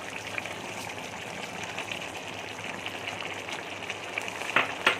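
Chicken curry in tomato purée and ghee bubbling and sizzling in the pan, a steady fine crackle, with two sharp knocks near the end.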